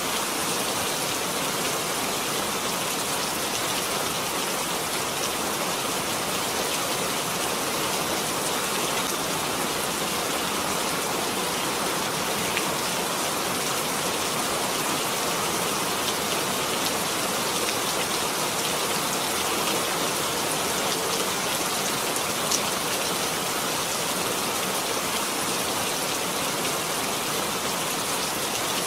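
Steady rain falling, an even hiss of many drops with a few louder single drops now and then.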